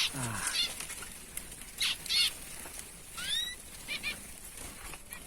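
Small aviary birds fluttering their wings and calling with short, high chirps, including a rising chirp a little past three seconds in.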